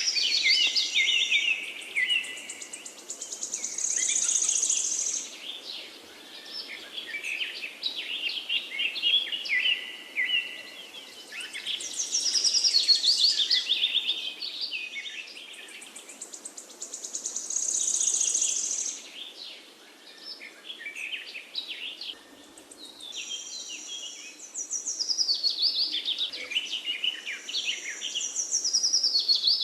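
Songbirds singing: bursts of quick chirps and warbled phrases every few seconds, with a high buzzy trill that recurs several times, over a faint steady outdoor hiss.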